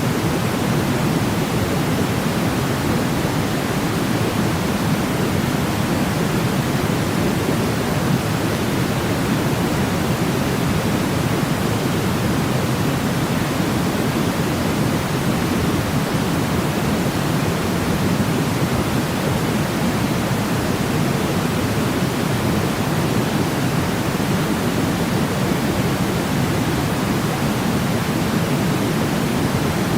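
Steady white noise for sleep, an even, unbroken hiss weighted toward the low end, heavier and deeper than a thin hiss, that does not change.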